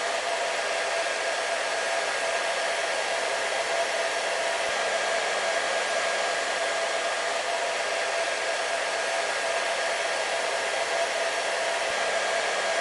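Hair dryer running steadily: an even rushing blow with a constant motor whine and no change in speed.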